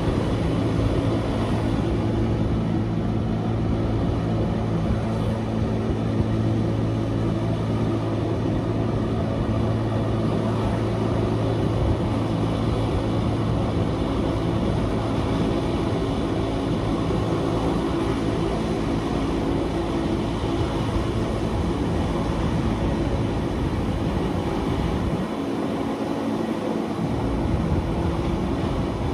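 Wengernalpbahn electric rack-railway train running downhill, a steady rumble of wheels and running gear with a constant low motor hum. The deepest part of the hum drops out for a couple of seconds near the end.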